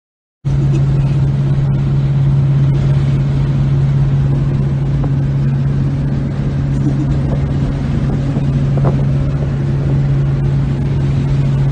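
Ford Mustang Bullitt's V8 droning steadily at a constant cruising speed, heard from inside the cabin with road noise, starting abruptly about half a second in. The pitch holds steady throughout, with no revving or shifting.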